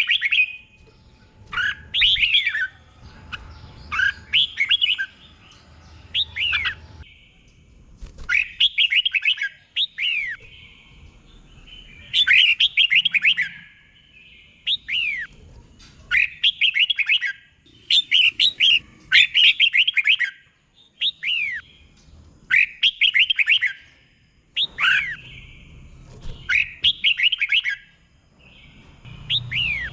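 Red-whiskered bulbul singing: short, loud phrases of quick whistled notes that sweep up and down, repeated every second or two and often given twice in a row.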